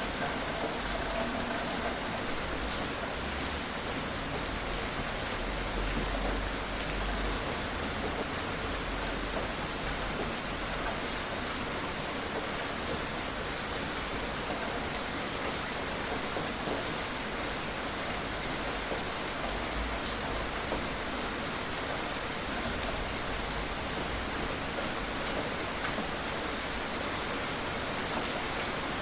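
Gentle rain falling steadily: a dense, even hiss with scattered ticks of individual drops.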